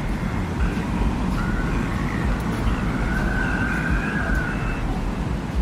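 Desert wind ambience: a steady low rumble of wind with gusts, over which a faint whistling tone wavers up and down, strongest a little past the middle.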